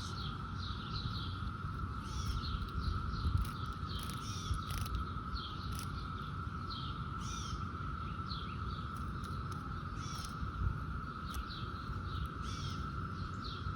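Birds chirping repeatedly over a steady, unbroken insect drone, the distant chorus of periodical cicadas.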